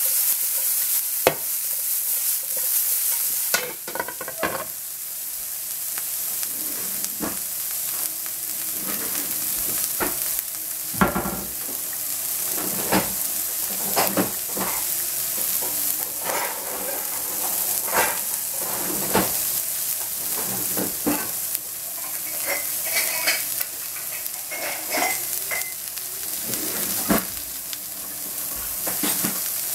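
Halved Brussels sprouts frying in oil in a nonstick pan: a steady sizzling hiss with frequent sharp pops and crackles. The hiss is louder for the first few seconds.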